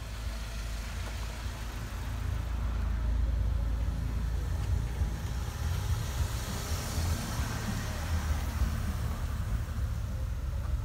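Red Opel Ascona C saloon's engine running as the car pulls away and drives off, a steady low rumble.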